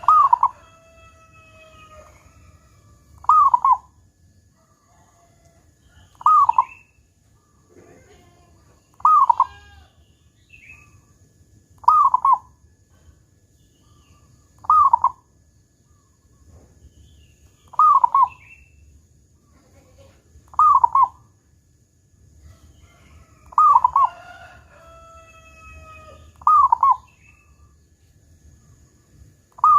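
Zebra dove (perkutut) cooing its song, a short loud call repeated about every three seconds, with the big 'kung' note that keepers prize.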